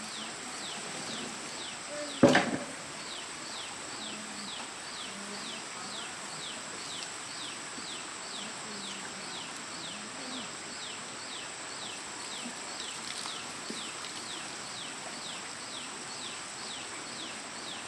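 A steady high insect drone, with a short high falling chirp repeated about twice a second. A single sharp knock sounds about two seconds in.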